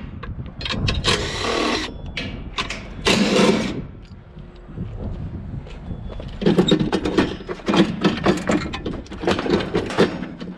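Scrap metal clanking and rattling as it is handled and pulled apart, in scattered bursts at first and then a dense run of knocks and clatter in the second half.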